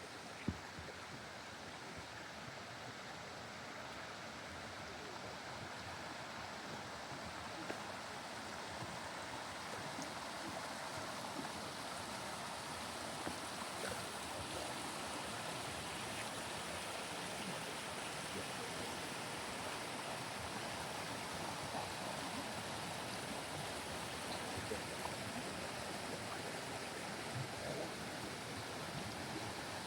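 Steady rush of a flowing stream, growing gradually louder over the first ten seconds or so, with a few faint ticks here and there.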